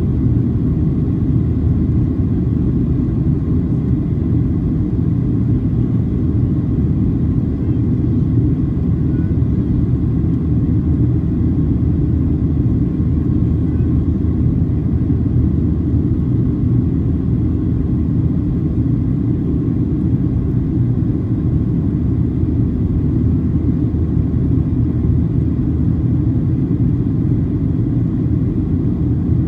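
Steady, even cabin rumble of a Boeing 737-800 heard from inside the passenger cabin: CFM56-7B engine and airflow noise, with no rise or fall in level.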